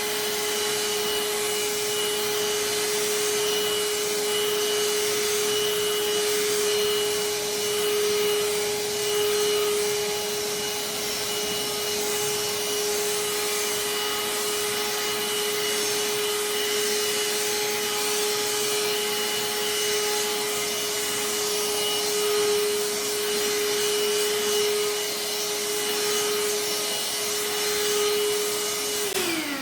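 Parkside PHSSA 20 Li C1 cordless handheld vacuum running with its wet nozzle, sucking water off the floor: a steady motor whine over a rushing hiss of air. Near the end the motor is switched off and its whine falls away.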